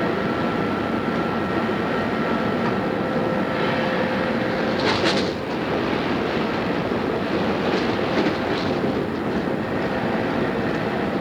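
Running sound of an Odakyu 2600 series electric train heard from inside the car, recorded on cassette tape: a dense, steady rumble of the car under way. A thin steady hum drops out about five seconds in with a short hiss, and a couple of sharp clicks follow soon after.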